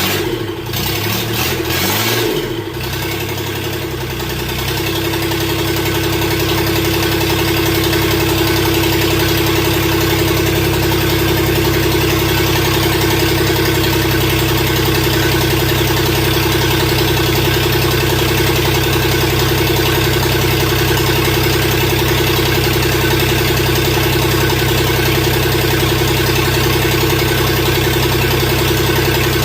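Freshly rebuilt diesel engine of a Mustang skid steer running. It is uneven for the first few seconds, then settles into a steady idle.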